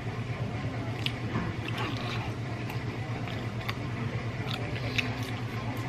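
Chewing roasted chicken, with scattered small wet mouth clicks, over a steady low hum.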